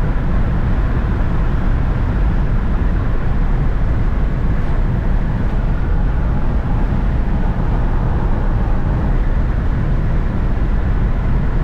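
Steady rumble of road and wind noise from a moving car, heavy in the low end and unchanging throughout.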